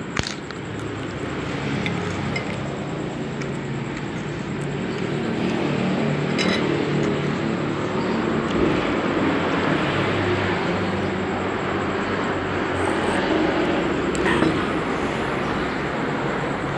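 Busy roadside food-stall ambience: steady passing traffic with occasional clinks of glasses, dishes and spoons, a few sharp clicks standing out.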